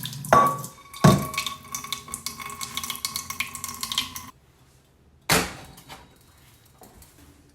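Metal cookware clanking as a pot is handled. A knock about a second in leaves a ringing tone for about three seconds, and another clunk comes about five seconds in, followed by faint clinks.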